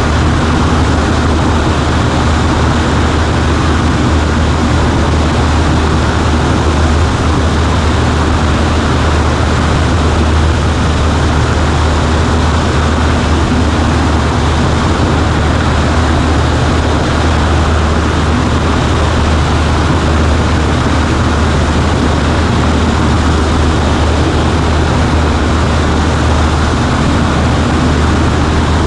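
Cessna 140A light aircraft's engine and propeller running steadily in flight: a loud, even, low drone that does not change.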